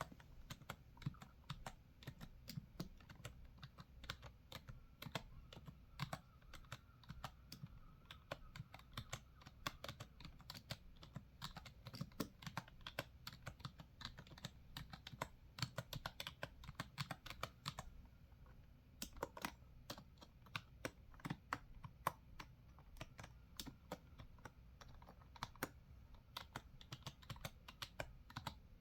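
Typing on a computer keyboard: a steady flurry of soft, irregular key clicks, several a second, with brief pauses.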